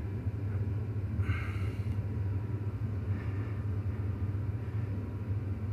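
Ford 7.3 Power Stroke V8 turbo-diesel idling with a steady low rumble. The owner suspects a bad injector or dead cylinder, since unplugging cylinder 6's injector made no change in idle quality.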